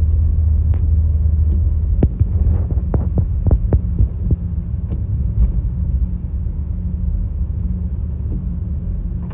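A car driving, heard from inside the cabin as a steady low road and engine rumble. A scattering of short, irregular clicks and knocks comes about two to five seconds in.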